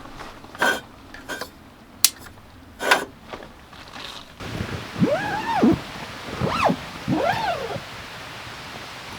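A few sharp clicks, then a dog whining in three short calls, each rising and falling in pitch.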